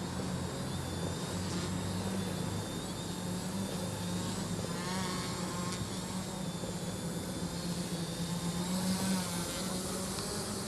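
Multirotor drone's electric motors and propellers humming steadily, the pitch stepping up and down as it is flown through manoeuvres in manual mode.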